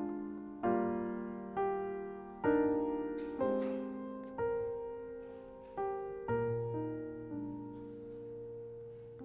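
Soft piano playing slow chords, one struck about every second, each left to ring and fade; a low bass note comes in past the middle and the last chord is held longer.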